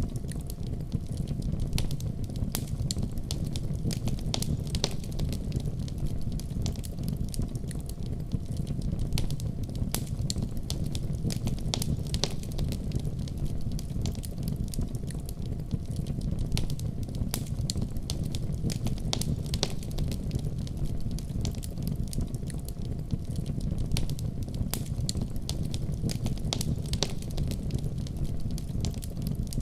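Wood fire in a fireplace crackling, with many irregular small pops and snaps over a steady low rumble.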